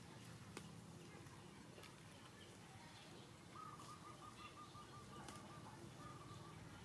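Near silence, with a faint rapid trill from a bird starting about halfway through and a shorter one near the end. A few faint clicks.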